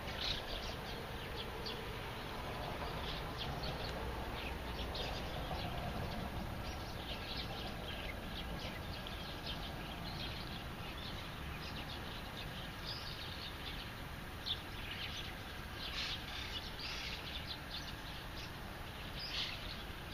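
Small birds chirping in short calls on and off, over a steady low background rumble.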